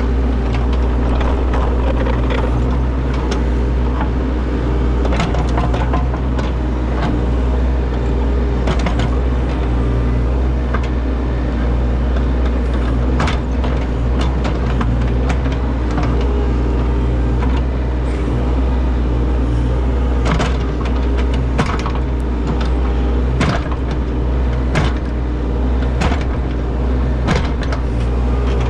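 Heavy diesel machine running steadily under load, with frequent sharp knocks and clanks throughout.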